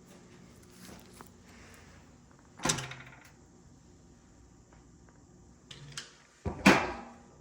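Knocks and clicks of dryer parts being handled during disassembly: one solid knock a little under three seconds in, a few light clicks, then the loudest knock with a short ring near the end.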